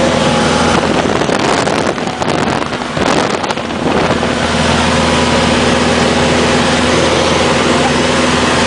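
Small propeller aircraft's piston engine running at a steady speed. For a couple of seconds, starting about a second and a half in, wind buffets the microphone and briefly covers the engine.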